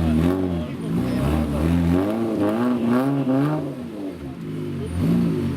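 Off-road competition 4x4's engine revving up and down again and again, the pitch rising and falling several times, with a short lull about four seconds in.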